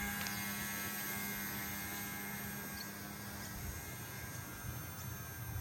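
K110S micro RC helicopter's brushless motor and rotor running, a steady electric whine made of many high tones held at an even pitch.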